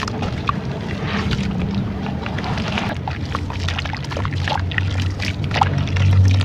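Dried brown sand-textured clay crumbling into water, with many small crackles and pops over a steady low hum.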